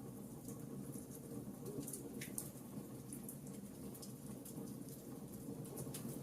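Fire burning in a fireplace: a steady low rush of flames with small, irregular crackles and pops, one slightly bigger pop a little over two seconds in.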